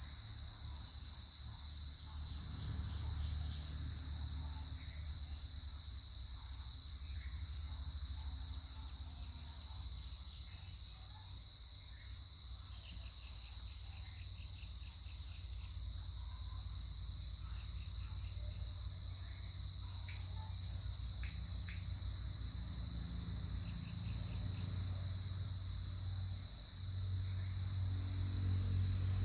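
Steady, unbroken high-pitched insect chorus, with a low rumble underneath that grows stronger near the end.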